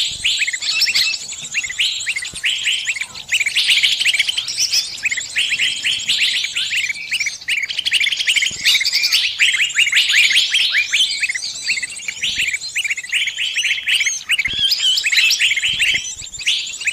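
Small birds giving dense, rapid, overlapping high chirps and twitters without a break: distress calls of a trapped bird and the answering calls of its flockmates.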